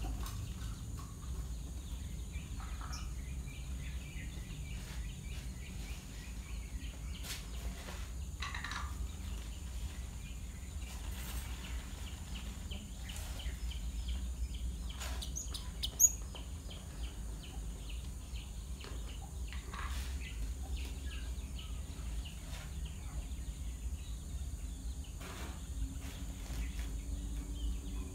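Java sparrows giving short, scattered chirps over a steady low hum, with one sharp click about halfway through.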